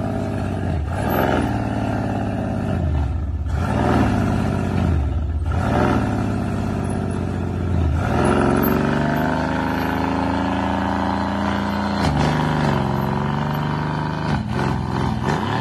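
Mercedes-AMG C63 S's twin-turbo V8 revving, the revs dropping away and climbing back again and again in a failed burnout attempt: the traction control was left on and keeps cutting the power.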